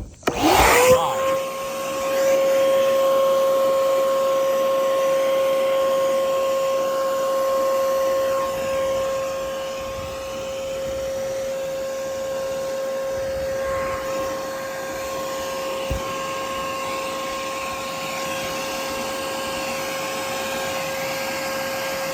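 Electric blower switched on: the motor spins up to a steady high whine within about a second, then runs steadily over a rush of air, blowing water out of a freshly washed window air conditioner.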